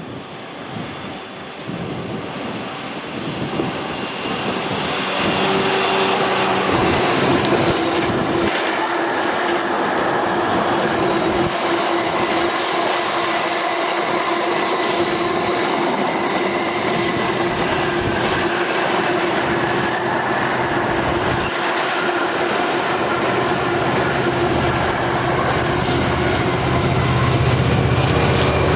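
A train passing close by, its wheels clattering over the rails. The sound builds over the first few seconds and then holds loud and steady.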